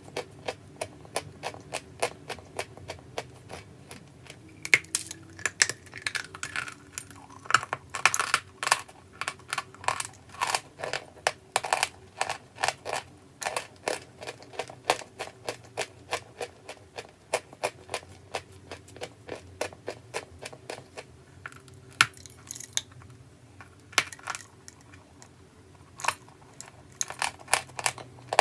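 Crunchy clay being chewed: a steady run of sharp crunches and cracks, several a second, easing off briefly about three-quarters of the way through.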